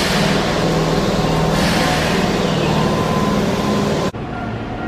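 A Keihan electric commuter train pulling slowly into the platform: a steady low hum with running noise and two bursts of hiss. About four seconds in the sound cuts abruptly to a quieter, different train sound with a few steady tones.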